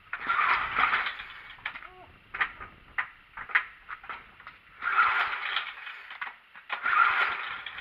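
A small garden-tractor engine being cranked three times, about a second each, with clicks and knocks between attempts; it does not fire.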